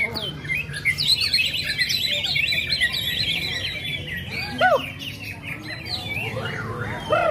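Several caged songbirds singing at once, a dense mix of chirps and rapid trills, with one louder swooping note about halfway through.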